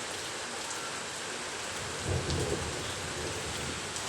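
Rain falling steadily, with a brief low rumble about two seconds in.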